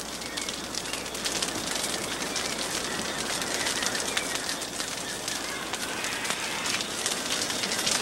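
Rainforest ambience: a steady hiss dotted with many small crackles, with bird calls.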